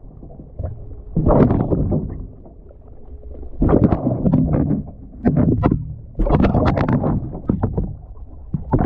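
Water sloshing in repeated surges inside a tumbling washing machine drum, heard from within. Sharp knocks come as the camera housing strikes the drum.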